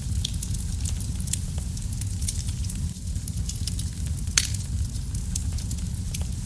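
Wood fire burning in a fireplace: a steady low rumble of flame with frequent sharp crackles and pops, one louder pop about four seconds in.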